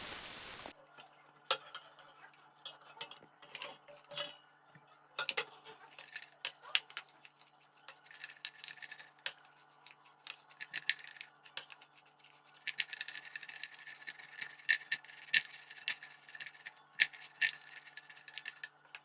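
Scattered clinks and taps of kitchen utensils against dishes and bowls, more frequent near the end, over a faint steady hum.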